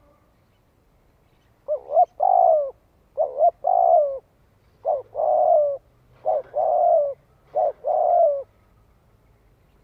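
Spotted dove cooing: five phrases in quick succession starting about two seconds in, each one or two short clipped notes followed by a longer coo that drops at the end.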